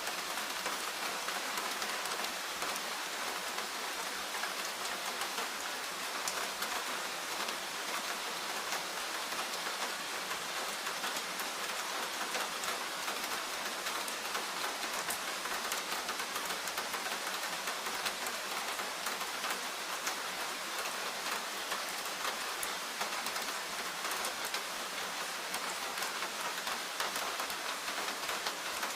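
Steady forest rain: a dense, even patter of many small drops.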